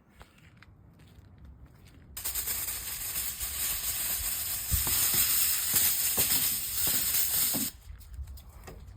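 A steady hiss that starts suddenly about two seconds in and cuts off suddenly some five seconds later, with a few faint clicks inside it.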